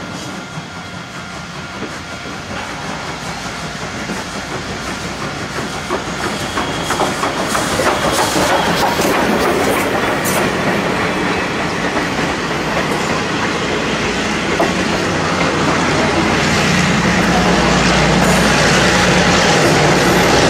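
Passenger train passing close by, its wheels clicking over rail joints and growing steadily louder as the coaches roll past. A steady low engine hum comes in near the end as a diesel locomotive at the rear of the train goes by.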